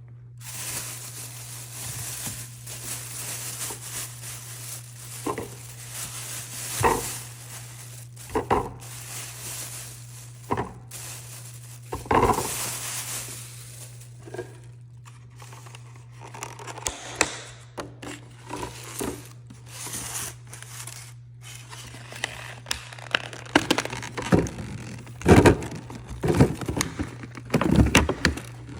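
Food containers and plastic bags being handled while a fridge is stocked: crinkling plastic, scattered knocks and scrapes, busier near the end, over a steady low hum.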